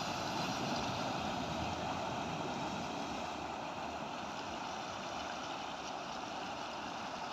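Fast-running rainwater stream in spate, pouring over a road causeway with a steady rushing of water.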